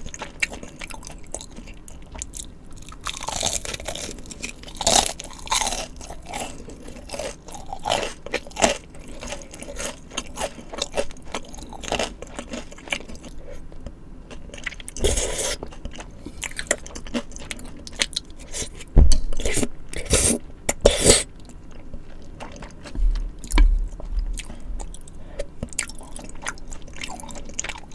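Close-miked eating sounds: irregular crunching bites and chewing of spicy tteokbokki and crispy fried side dishes.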